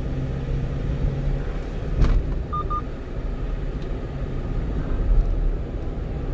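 Engine and road noise heard from inside the cab of a moving 1-ton truck: a steady low rumble, with a single sharp knock about two seconds in and two short electronic beeps just after.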